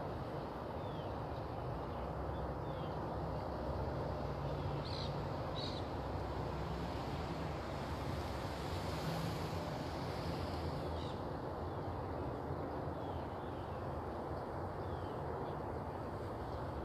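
Outdoor ambience: a steady low rumble with scattered short, high bird chirps, and two brighter bird calls about five seconds in.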